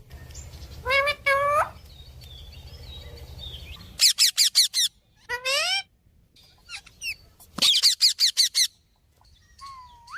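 Parrots calling: two rising squawks about a second in, then two quick runs of repeated falling chirps, about six or seven a second, around four and eight seconds in, with single rising calls between and near the end.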